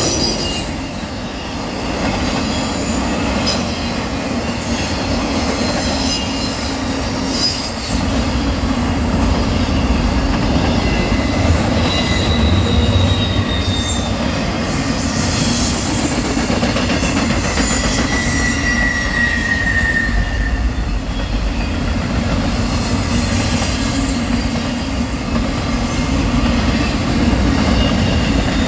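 Freight train of a garbage train rolling past: a steady rumble of wheels on rail, with thin, high wheel squeals that come and go.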